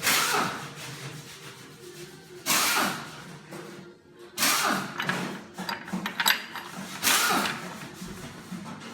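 Ratchet spanner clicking in four short bursts about two seconds apart as bolts are run in on a Hydramatic automatic gearbox, with a few sharp metal clicks in between.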